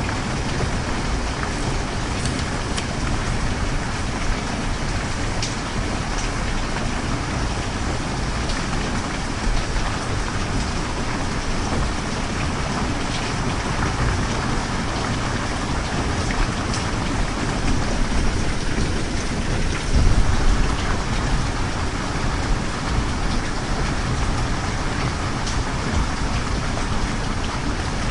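Steady rain falling, an even hiss with scattered drop taps, and a brief louder low swell about twenty seconds in.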